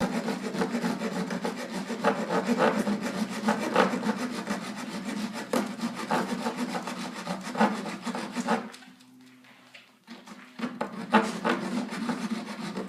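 Saw cutting through a wooden dowel with repeated rasping strokes. It pauses about two-thirds of the way in, then starts again.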